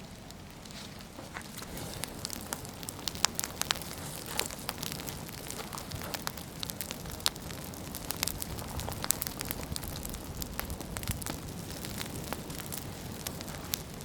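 Dry autumn leaves burning, crackling with many sharp, irregular pops over a steady rushing sound. The fire grows louder about two seconds in.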